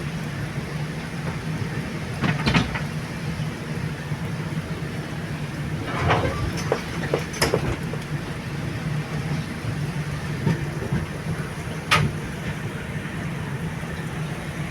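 Train running on rails: a steady low rumble with a few sharp clacks and knocks, about two seconds in, a cluster around six to seven and a half seconds in, and one near the end.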